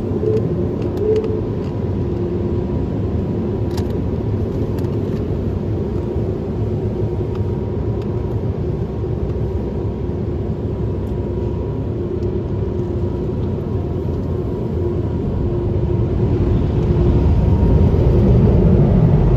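Steady rumble of automatic car wash machinery heard from inside the car, with a faint constant hum, swelling louder near the end.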